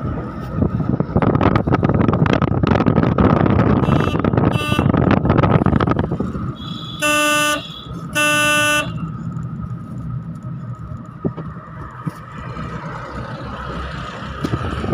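Car driving, with loud engine and road rumble, then a vehicle horn honks twice in quick succession, about half a second each, just past halfway; quieter running noise follows.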